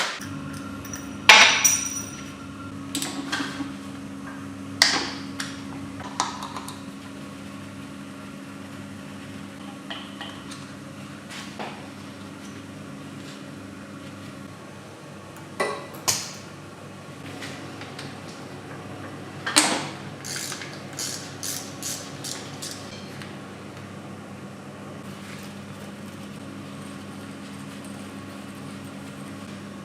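Metal tools knocking and clinking on metal engine parts, a few sharp strikes, then a quick run of light taps, over a steady machine hum.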